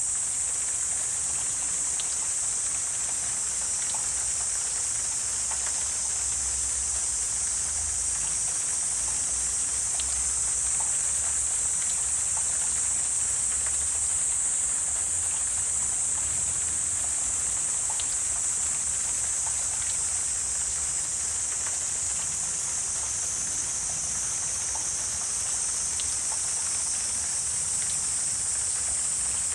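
Steady high-pitched insect chorus that holds an even level throughout, with faint soft ticks every few seconds.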